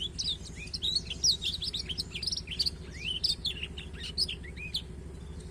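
Canary-family finch song: a rapid, varied run of chirps and trills, as when a canary is tutored with African blackthroat song. The song stops near the end, leaving a steady low hum.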